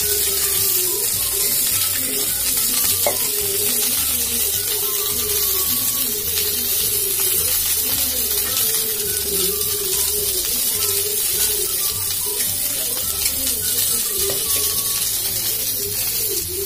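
Okra frying in hot oil in a pot on a gas stove, a steady sizzle throughout. A wavering melody of background music plays over it.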